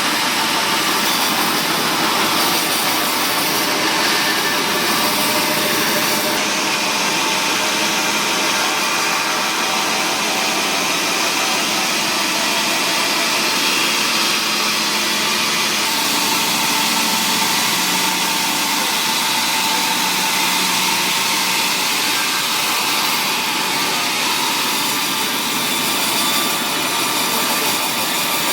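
Woodworking machinery at a timber mill running steadily with a loud, continuous drone. The top end thins out about six and a half seconds in, and the sound shifts slightly again near sixteen seconds.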